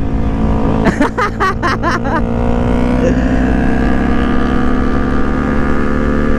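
Sport motorcycle engine cruising at steady revs, heard from the rider's seat with wind rumble on the mic. About a second in there is a quick string of short, sharp pitched bursts lasting about a second.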